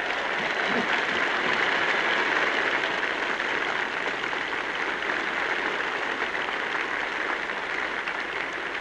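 Large crowd applauding: a dense, steady clapping that swells in the first couple of seconds and eases slightly towards the end.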